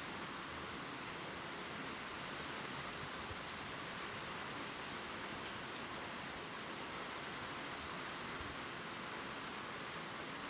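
Gentle rain falling steadily on leaves, an even hiss with a few faint high drip ticks.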